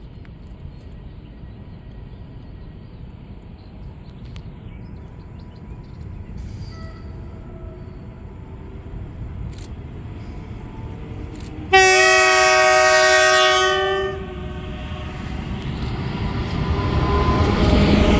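Train horn sounding one loud blast of about two seconds, cutting in sharply a little past the middle. A train's rumble grows steadily louder near the end as it draws near.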